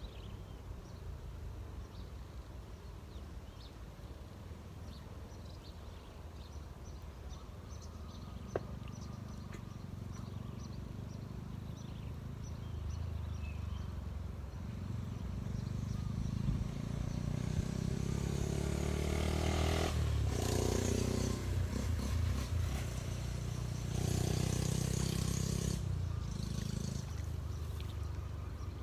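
An engine passing by: a low rumble builds over several seconds, is loudest about two-thirds of the way in, then fades near the end.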